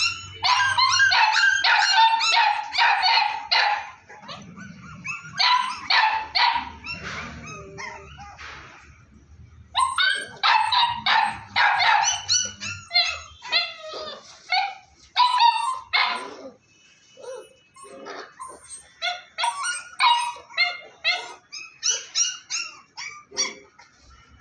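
Dogs barking and yapping, high-pitched and quick, in several bursts of rapid barks with short lulls between them.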